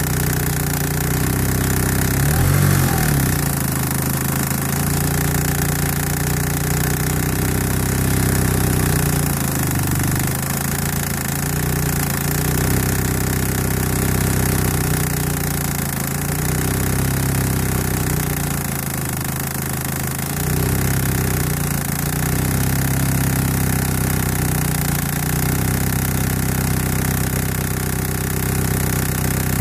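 1991 Eagle Talon TSi AWD's turbocharged four-cylinder engine idling steadily, with a brief blip of revs about two to three seconds in. This is the engine whose tick noise the owner is chasing.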